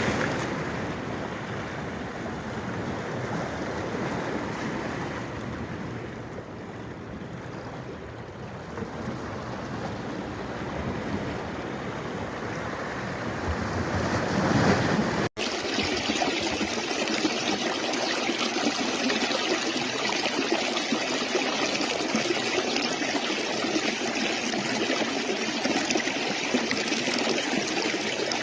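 Flowing water running as a steady rushing noise. About fifteen seconds in it cuts off for an instant and comes back brighter and hissier, as a different stretch of water.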